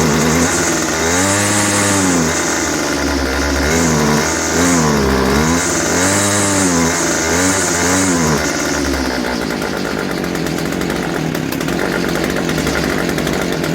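Homelite i625cd string trimmer's small two-stroke engine running, revved up and down repeatedly, then settling to a steadier, lower speed about nine seconds in. It still runs badly: the carburettor fault is not cured.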